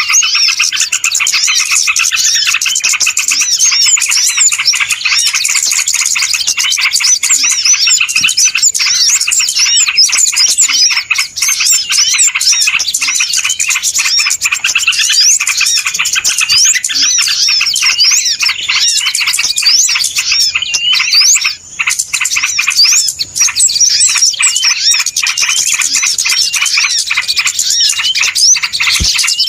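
Dense, noisy chorus of many small birds chirping and twittering over one another without a break, dipping briefly about two-thirds of the way through. It is a bird-lure (pikat) recording of a busy flock, made to draw wild birds in.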